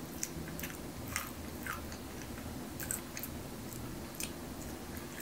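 Close-mic chewing and biting of Korean-style fried chicken wings: irregular short crunches and mouth clicks.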